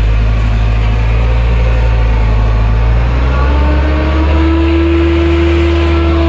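Heavy truck engine running with a loud, steady low drone; its pitch shifts about three and a half seconds in, and a higher steady whine joins soon after.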